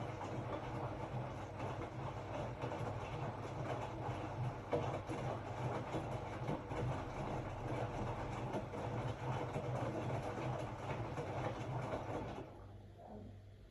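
Hotpoint-Ariston RSG 825 J washing machine running, with a steady low hum and a rumbling, clattering churn that drops away sharply near the end.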